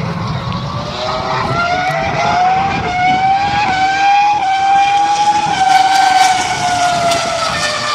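Jaguar R5 Formula One car's 3.0 L V10 engine running at high revs, its high-pitched note climbing steadily for about four seconds with two brief hitches around the middle, holding, then falling away near the end.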